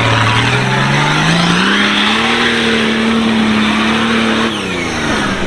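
Off-road 4x4's engine revving up under load, its pitch climbing steadily over about two seconds and holding high, then dropping as the throttle comes off near the end.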